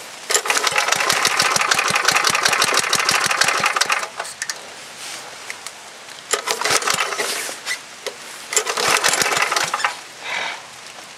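A 5 HP Tecumseh H50 single-cylinder flathead engine being cold-started by recoil pull with the choke on: it catches and sputters for about four seconds, then dies, followed by two more pulls that don't catch. The engine is hard-starting in the wet.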